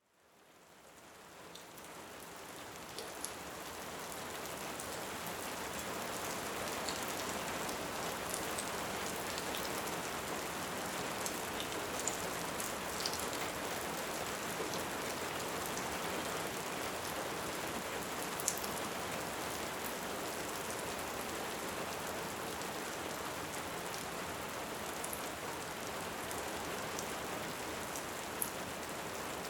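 Steady rain falling, fading in over the first few seconds, with a few scattered sharp pops of a crackling wood fire.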